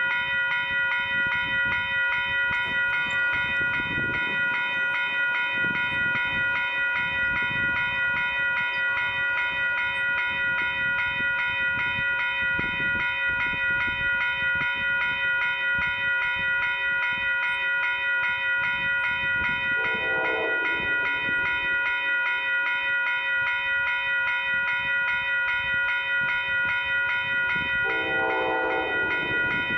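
Amtrak passenger train passing, a steady drone of several held tones throughout, with two short horn blasts about twenty and twenty-eight seconds in.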